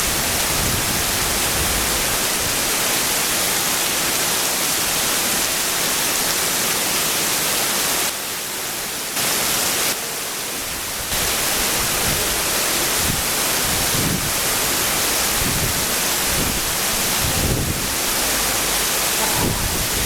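Rain falling, a steady loud hiss, briefly softer twice around the middle.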